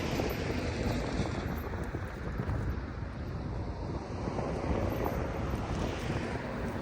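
Steady low rushing of wind buffeting the microphone outdoors.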